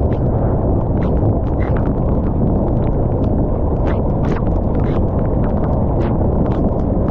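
Rain in wind: a loud, steady low rumble with irregular sharp taps of raindrops striking close by.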